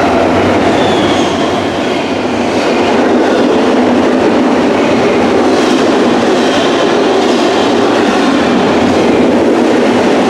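A train passing close by: loud, steady rumble and rattle of wheels and cars on the rails, cutting off abruptly near the end.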